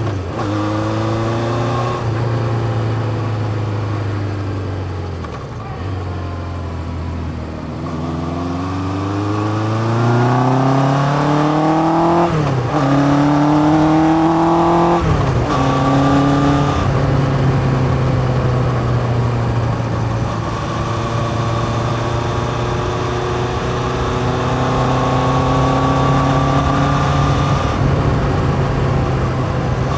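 1981 Yamaha XJ550 inline-four running through a 4-into-1 exhaust. Engine speed falls away as the bike slows, then it pulls hard up through the gears with two quick upshifts about halfway through, each a sudden drop in pitch. It settles into a steady cruise.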